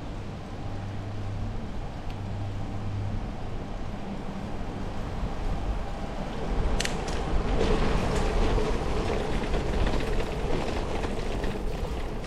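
Road noise and wind rumble on a moving bicycle, turning louder about seven seconds in with a run of clicks and rattles.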